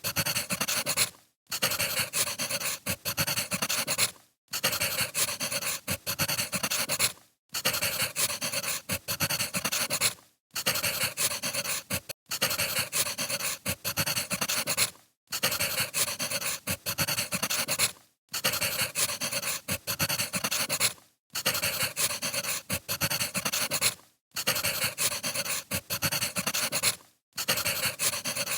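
Firewood crackling and hissing in a fire, in even stretches of about three seconds, each broken off by a brief silent gap, like a short recording played on a loop.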